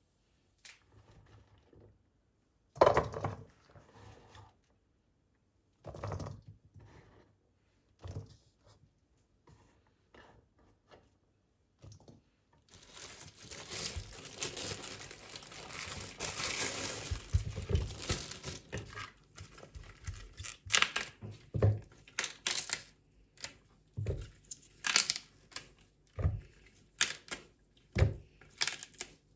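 Hands handling things in a small room: scattered knocks, then several seconds of steady crinkling and tearing like packaging being opened, then a quick run of sharp taps and knocks.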